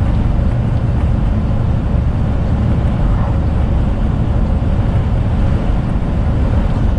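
Strong wind rushing in through a truck cab's partly opened side window, a loud steady rush of air mixed with the truck's running and road noise.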